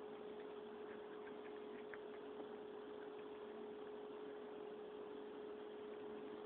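Steady low hum over a faint hiss, with a few soft ticks here and there.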